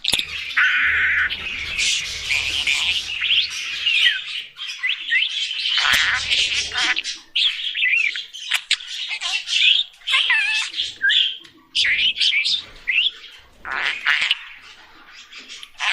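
Budgerigars chattering: a busy run of quick, gliding chirps, warbles and squawks with short clicks, briefly quieter near the end.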